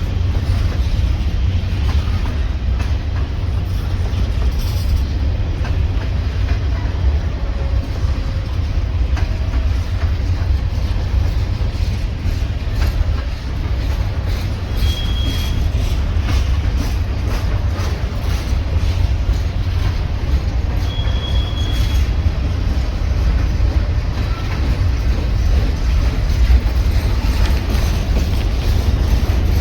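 Train rolling past close by, with a steady deep rumble and the clatter of wheels over the rail joints. Two short, high wheel squeals come about halfway and two-thirds of the way through.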